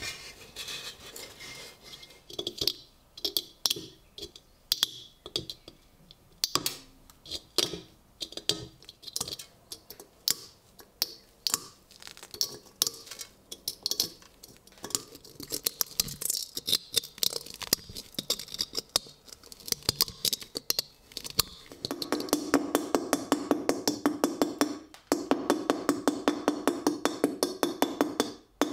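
Hand work on a rusty steel helmet shell: irregular sharp clicks and taps, then, about two-thirds of the way in, a fast run of strokes several times a second with a brief pause near the end.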